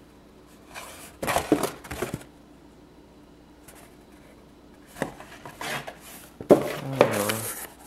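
A plastic model kit's box and bagged parts being handled: a few short bursts of rustling and knocking with quiet gaps between.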